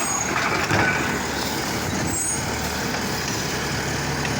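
Garbage truck engine running steadily, with a short burst of rushing, hissing noise in the first second.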